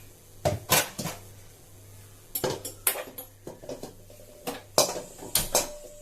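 A cooking pan being set on the stove, with kitchen utensils clattering: a series of sharp knocks and clanks, about a dozen in all, one ringing briefly near the end.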